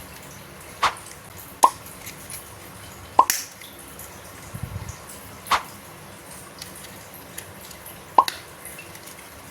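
Toy excavator parts giving five sharp, irregularly spaced clicks as they are handled and fitted together.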